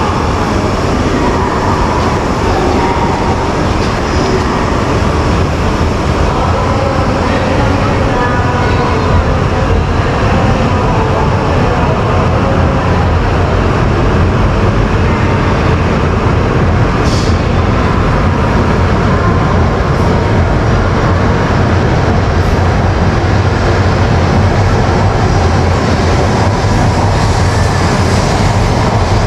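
A train running, with a steady rumble and no rise or fall over the whole stretch.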